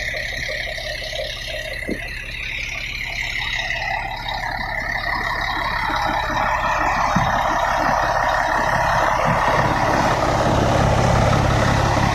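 Large bus diesel engine idling steadily, getting louder in the second half.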